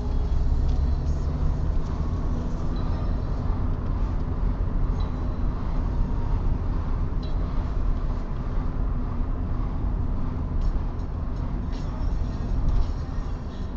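Car on the move, a steady low rumble of engine and tyres on the road surface, with faint scattered ticks and rattles.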